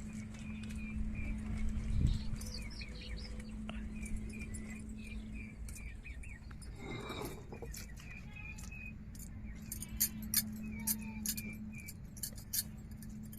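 Small clinks and taps of kitchen utensils, clustered near the end, over a steady low hum, with a bird chirping repeatedly in the background.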